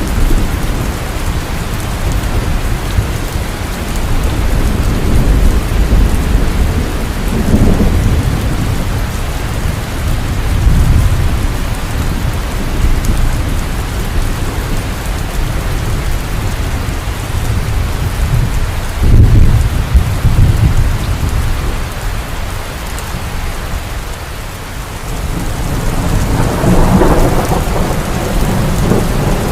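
Heavy rain falling steadily, with low rolls of thunder swelling and fading several times, the loudest about two-thirds of the way through.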